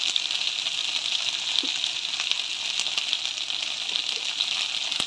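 Okra and sliced onion frying in hot oil in a kadai: a steady sizzle with small crackles.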